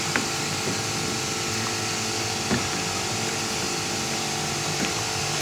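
A steady mechanical hum of a running motor, even in level throughout, with a few faint ticks.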